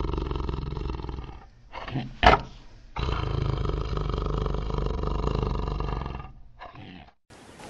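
Tiger roaring: two long roars of about three seconds each, with a sharp click between them and a brief shorter call near the end.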